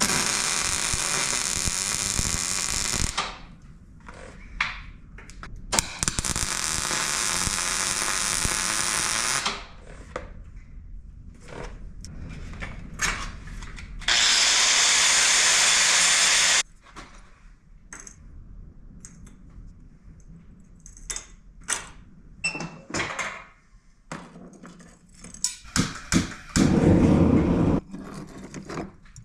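A handheld power tool run on metal spur parts in three bursts of a few seconds each, with a shorter, lower-pitched burst near the end. Between the bursts, small clicks and knocks of metal parts being handled.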